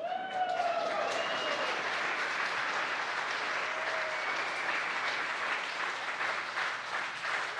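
A crowd cheering and applauding, celebrating the Falcon 9 first stage's landing. It bursts in suddenly with whoops that fall in pitch, then carries on as steady clapping.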